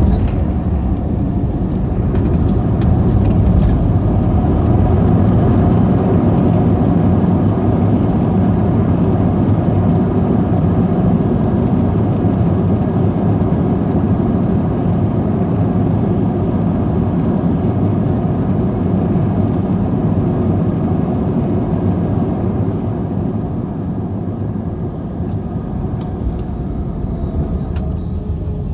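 Airbus A321 landing rollout heard from inside the cabin: a sharp knock at the start, then a loud low rumble of the jet on the runway that swells over the first few seconds and slowly eases off as the plane slows. Near the end there is a faint falling whine.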